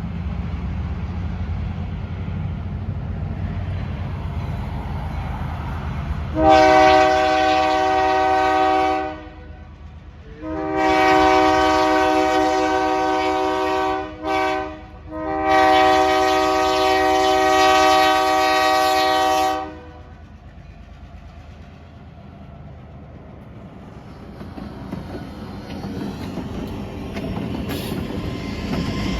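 Diesel freight locomotive's chime horn sounding the grade-crossing signal: two long blasts, a short one and a final long one, each a chord of several notes. Under it runs the low rumble of the train's diesel engines, which is quieter after the horn and builds again near the end.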